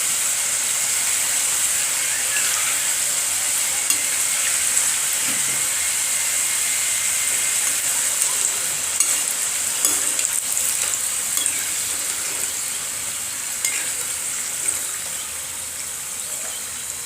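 Pieces of jaggery-flour dough (kapnya) deep-frying in hot oil: a steady sizzling hiss, with a few light clicks scattered through it.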